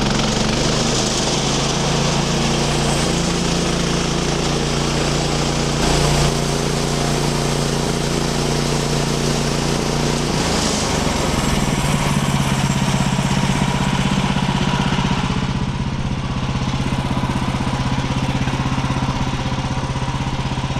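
Woodland Mills HM130 Max portable bandsaw sawmill running steadily as it saws an ash log, its engine note shifting about ten seconds in.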